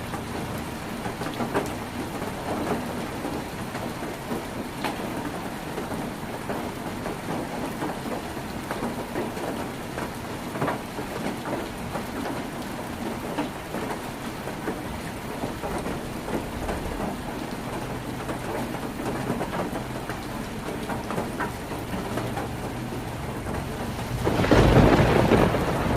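Heavy rain falling on a tin roof, a steady hiss dotted with sharp individual drop strikes. A low rumble of thunder swells up near the end.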